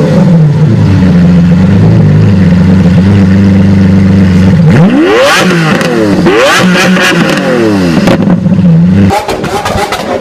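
Car engine and exhaust running at a steady idle, then revved sharply up and down three or four times about halfway through before settling back. Near the end it cuts abruptly to a quieter, different engine sound with ticking.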